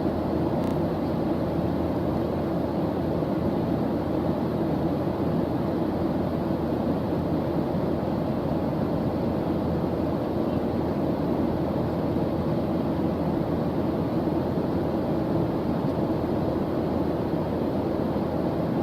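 Steady white-noise background track: an even, deep rush with no change in level.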